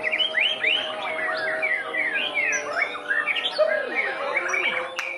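White-rumped shama (murai batu) singing a fast, varied run of whistled notes that sweep up and down in pitch, with a steady faint hum underneath.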